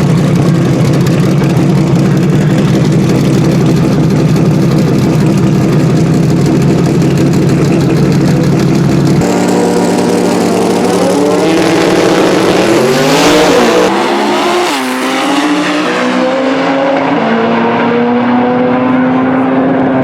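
Twin-turbo Terminator Cobra drag car's engine running loudly and steadily for about nine seconds, then launching down the drag strip: the pitch climbs and steps down with the gear changes, and the high end fades as the car moves away.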